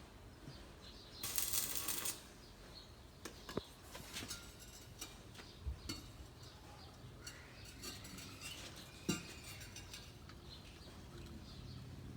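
Metal being handled: scattered clinks and knocks of steel pieces, with a brief loud hissing burst about a second in.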